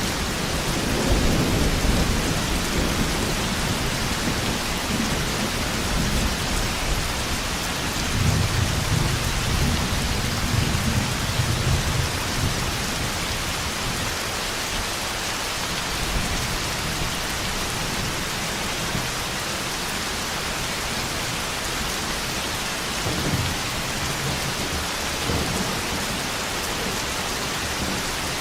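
Thunderstorm: steady heavy rain with rolling thunder rumbling in several low swells, strongest around a third of the way in.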